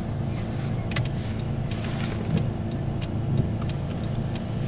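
Steady engine and road rumble heard from inside the cab of a Mercedes E-Class ambulance, with scattered faint ticks and one sharper click about a second in.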